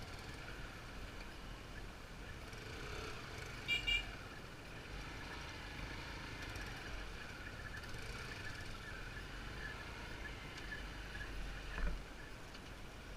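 Motorbike riding noise: a steady engine and road rumble, with a brief high-pitched tone about four seconds in and a short louder moment near the end.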